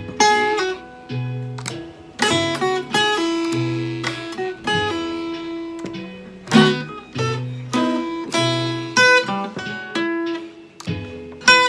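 Blues guitar playing an instrumental passage: picked notes and strums over a steady, repeating low bass line.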